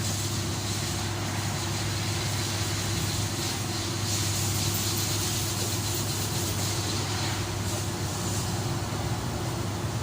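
Steady low machine hum with an even hiss over it, unchanging throughout: workshop background noise.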